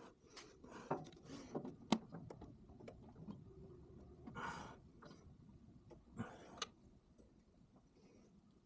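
Small metal clicks and taps of screws and a screwdriver being worked on a carburetor, mostly in the first two seconds, with two short soft puffs of hiss about halfway through.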